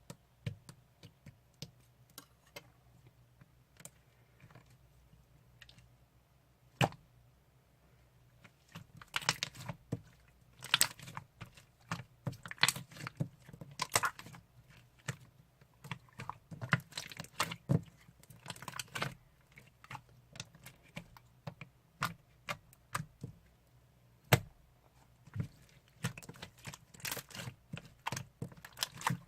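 Slime being squeezed and poked by hand, making irregular crisp clicking and crackling, with quieter stretches between busy bursts of clicks.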